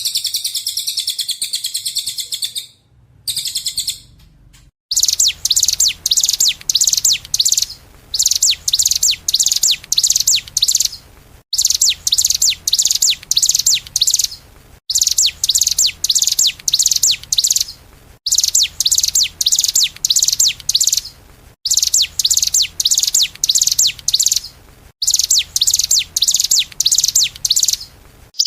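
A small songbird sings rapid, high chirping trills, first as one continuous song for two to three seconds. From about five seconds in, short phrases of two to three seconds repeat with abrupt cuts about every three seconds: a looped master recording of birdsong.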